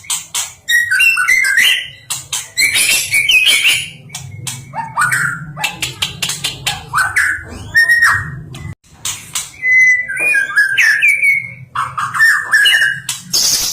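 White-rumped shama (murai batu) singing a long, varied string of loud whistled phrases, broken up by sharp clicking, chattering notes. A steady low hum runs underneath.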